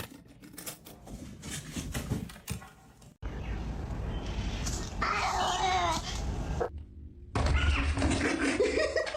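Domestic cat meowing twice, one call about five seconds in and a rising one near the end. Before that come scattered knocks and clicks.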